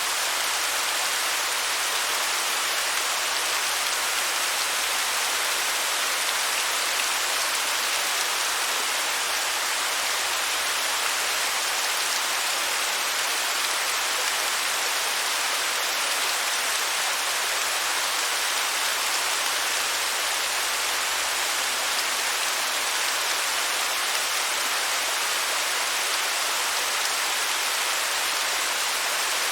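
Waterfall running steadily: an unbroken, even hiss of falling water with little deep rumble.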